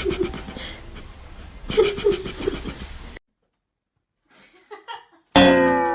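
A person laughing in short repeated bursts. After a sudden cut, a loud held tone, falling slightly in pitch, starts near the end.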